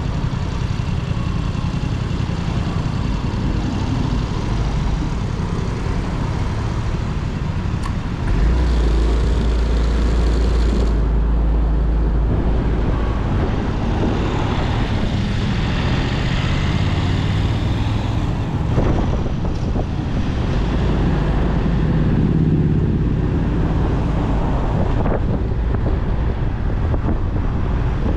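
Motorcycle on the move in road traffic: engine and road noise with a deep rumble that grows louder about eight seconds in.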